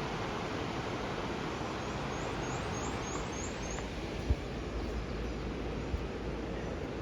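Steady rushing of a waterfall, Little River Falls with its 45-foot drop. A bird gives a quick run of six high chirps about two seconds in, and there is one soft bump a little later.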